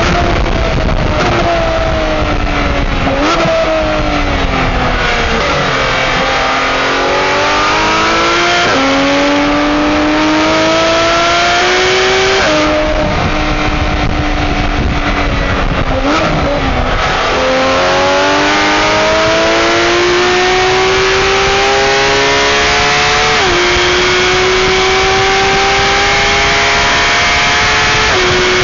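Porsche 911 GT3 flat-six engine heard from inside the car at racing speed: it slows with quick rev blips on downshifts about 3 seconds in and again just past halfway, and otherwise climbs in pitch under full throttle, dropping back at each upshift.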